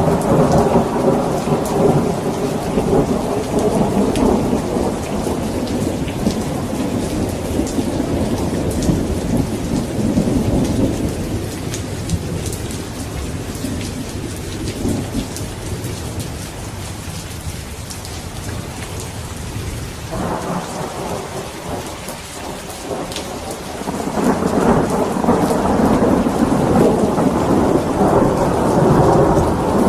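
Steady rain with rolling thunder: a long low rumble that dies down through the middle, then a new peal swells up about three-quarters of the way through.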